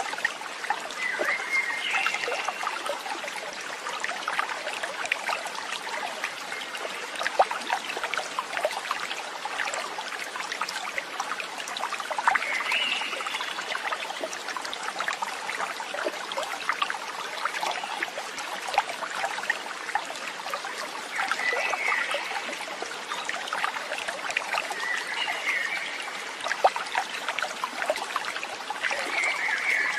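Water trickling and babbling in a small stream, steady throughout, with a bird giving short chirping calls about five times, several seconds apart.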